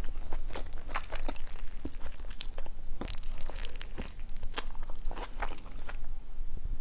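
Close-miked biting into and chewing of a large sauce-topped burrito: a quick run of wet, crunchy mouth clicks and smacks over a low steady hum.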